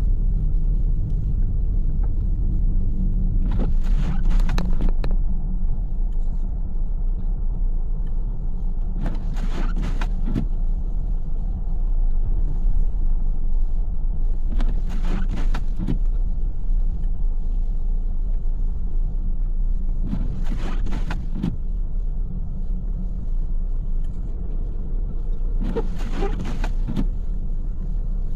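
Car driving, a steady low road and engine rumble, with a short swishing burst about every five and a half seconds.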